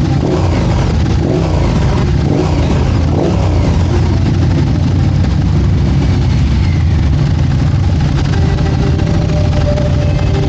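Motorcycle engines running, revving up and down a few times in the first three seconds, then a steadier low running sound.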